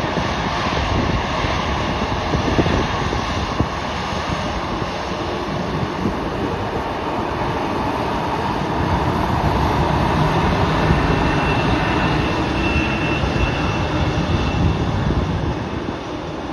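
Jet airliner engines running loud and steady, a dense rumbling noise that swells a little about ten seconds in, with a faint high whine, and eases near the end.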